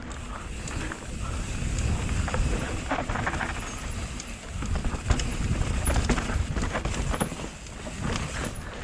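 Mountain bike riding fast over a rough dirt trail: tyres rumbling on the ground, with the chain and frame clattering and rattling over bumps. Steady wind rumble on the helmet camera sits under it.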